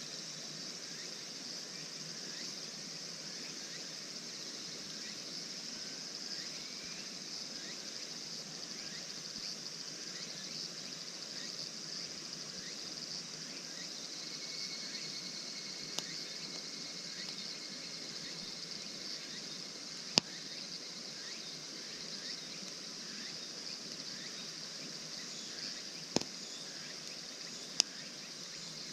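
Steady chorus of insects chirping, broken a few times by sharp pops from a wood campfire crackling.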